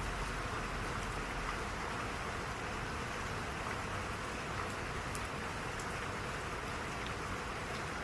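Steady rain falling: an even hiss with occasional faint ticks of single drops.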